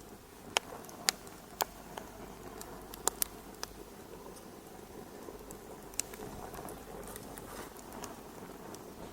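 Wood fire in a fireplace crackling: a steady low rush of burning with sharp pops, several in the first four seconds and one more about six seconds in.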